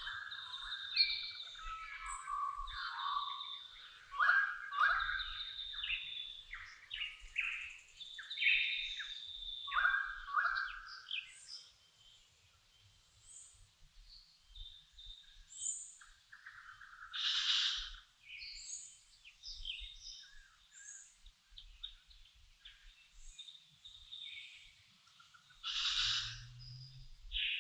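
Dawn chorus of wild birds: several species singing and calling over one another, busy for the first few seconds and then thinning to scattered chirps and whistles. A louder, harsher call comes twice, once about two-thirds in and once near the end.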